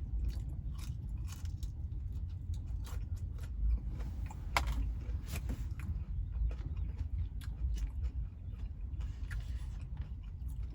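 Scattered small clicks and rustles of someone eating and handling food in a truck cab, over a low steady rumble. A couple of sharper clicks come about halfway through.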